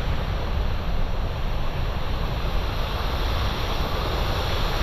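Waterfall rushing steadily, a constant, even roar of falling water.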